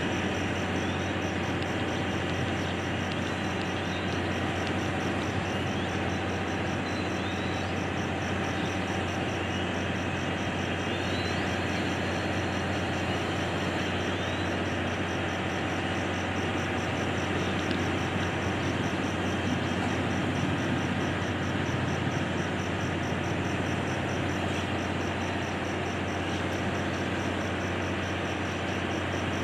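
Steady mechanical noise of a train: a low hum with an even hiss over it, unbroken throughout, with a few faint short squeaks.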